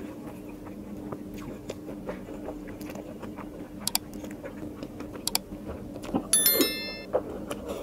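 Close-miked eating sounds: soft wet clicks and smacks of chewing, with fingers working through biryani rice, over a faint low hum. About six and a half seconds in comes a short, bright chime-like sound.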